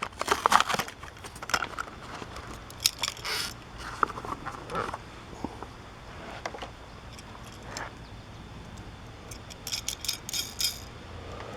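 Plastic blister packaging being crinkled, pried and torn open by hand to free a diecast toy vehicle, with irregular crackles, scrapes and clicks; a flurry of crackling comes near the end.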